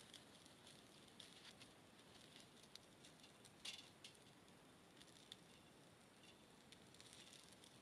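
Faint, sparse crackling and popping of a small wood fire burning in a Picogrill camp stove, with one sharper click about three and a half seconds in.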